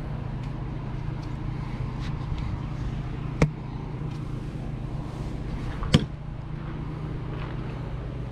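Steady low hum of an idling motor vehicle engine, with two sharp knocks about two and a half seconds apart.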